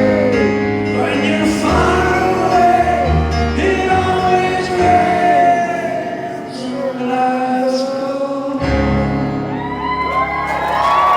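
Live band and singing, with many voices, at the close of a pop-rock song in a concert hall. Near the end the crowd starts cheering and whooping.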